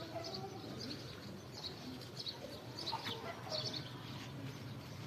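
Small birds chirping in the background, short high chirps repeating every half second or so over a steady outdoor hum.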